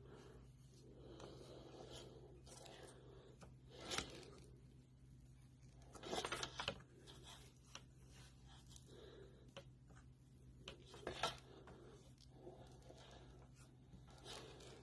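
Near silence with a low steady hum and a few faint scrapes and rubs, the loudest about 4, 6 and 11 seconds in.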